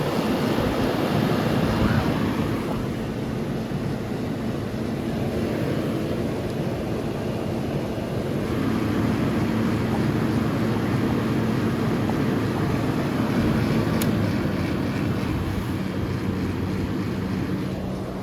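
Vintage Carry Cool 5,000 BTU window air conditioner running in cooling mode: a steady rush of fan air from the blower and the outdoor condenser fan over the constant low hum of the running compressor.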